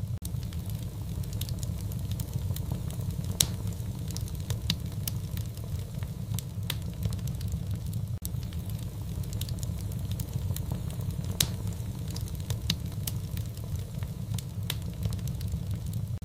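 Fire in a fireplace crackling: many sharp, irregular pops over a steady low rumble, with two louder pops about three seconds in and about eleven seconds in.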